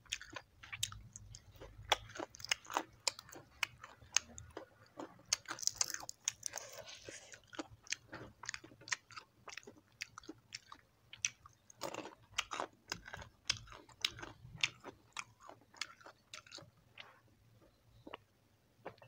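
Crispy deep-fried chicken feet being bitten and chewed close to the microphone: a quick, uneven run of small crackling crunches and wet chews. The crunching stops near the end.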